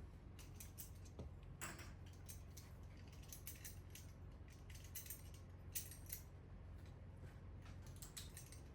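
Faint, scattered small metallic clicks and clinks of hose clamps being handled and squeezed onto a water line, over a steady low hum.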